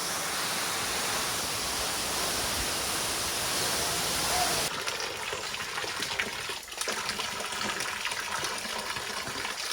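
Steady roar of a waterfall. About halfway through it cuts off abruptly to quieter running and splashing water with small ticks.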